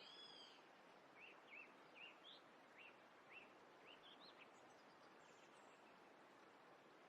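Faint bird chirping over a steady background hiss: one call right at the start, then a run of short, upward-hooked chirps for a few seconds.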